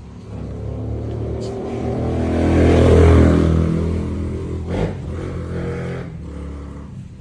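Husqvarna TC50's small two-stroke engine running at a fairly steady pitch, growing louder to about three seconds in and then easing off.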